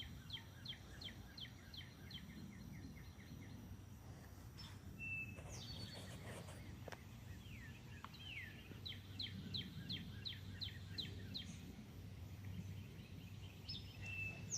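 A songbird singing twice: each phrase is a short falling note followed by a quick, even series of about ten short chirps at roughly three a second. A few single whistled notes fall between the phrases, over a faint steady low rumble.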